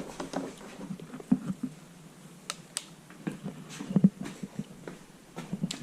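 Scattered light clicks and knocks with a few soft thumps: handling noise as someone moves about and picks things up.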